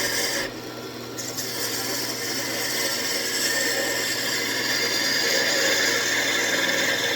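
Gouge cutting a spinning walnut blank on a wood lathe: a steady hiss of the cut over the hum of the lathe motor, breaking off briefly about half a second in and then resuming.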